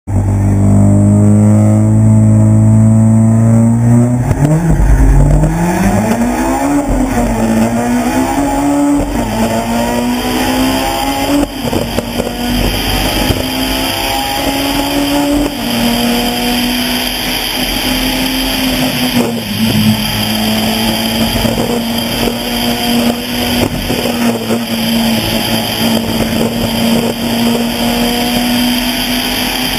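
Honda Civic Type-R EP3 rally car's engine, heard from inside the car, held at steady revs at the stage start. About four seconds in it launches and revs up through the gears, the pitch climbing and dropping with each shift. It then runs hard at high revs, with brief lifts for gear changes.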